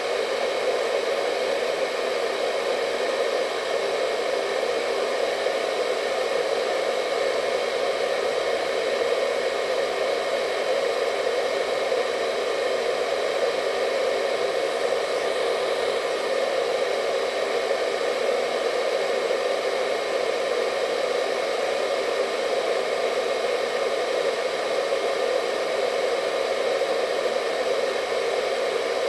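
Hair dryer running steadily: an even rush of blown air, strongest in the lower middle, with a faint steady hum of the motor and no change in speed.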